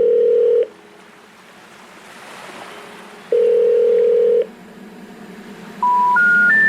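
Telephone line tones: two long, steady ringback beeps a few seconds apart, then three short tones stepping up in pitch near the end. The rising three-note special information tone signals a call that cannot be completed.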